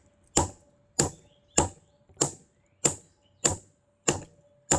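A hammer strikes a big chunk of milky quartz eight times in a steady rhythm, about one blow every 0.6 seconds, each with a sharp, bright crack. The rock is not breaking under the blows: "some hard junk."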